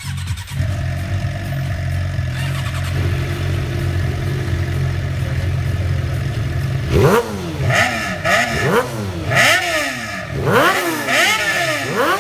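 Suzuki GSX-R600 inline-four sport-bike engine and exhaust running steadily, then revved in a series of quick throttle blips from about seven seconds in, the pitch rising and falling with each blip.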